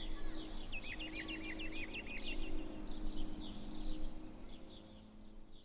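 Songbirds singing, a rapid series of repeated chirps, over a faint steady low hum; everything fades out near the end.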